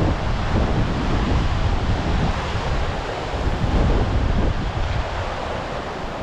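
Wind buffeting the microphone over a steady rush of sea surf breaking on the shore.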